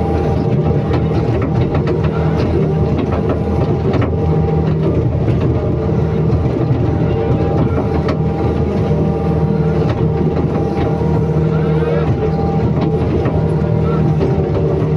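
Excavator diesel engine running steadily under load, with occasional short clanks and knocks.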